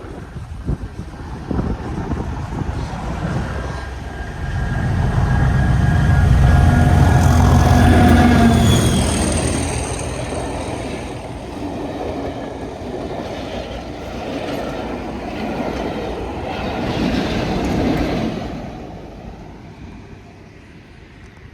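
Railtour train hauled by English Electric Class 37 and Class 40 diesel locomotives passing over a level crossing. The loco engine rumble builds and is loudest about five to nine seconds in, then the carriages clatter past and the sound fades near the end.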